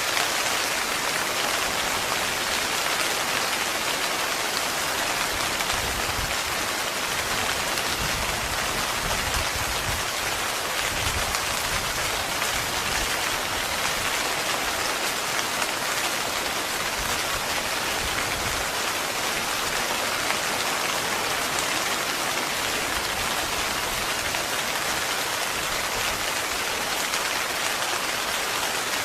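Heavy rain falling steadily on a tent, a dense even hiss with no let-up. A low rumble swells up underneath about six seconds in and fades away by about twenty seconds.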